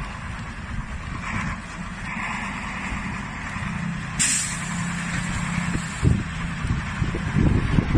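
Heavy truck running with a steady low rumble. About four seconds in comes a sudden loud hiss of air, typical of a truck's air brakes, and a few thumps follow near the end.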